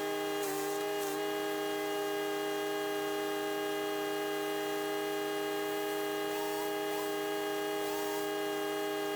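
Chipease D1500E wood chipper's 420cc four-stroke engine running steadily at constant speed, a continuous even drone that dips slightly in pitch a couple of times in the first second.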